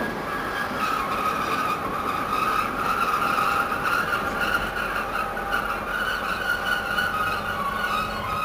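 Steel wheels of sleeper-train carriages squealing steadily against the rails, a sustained high screech over a low rumble, as the cars are shunted slowly.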